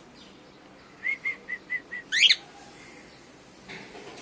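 Cockatiel calling: a run of five short, even chirps, then a loud warbling whistle that sweeps sharply up in pitch.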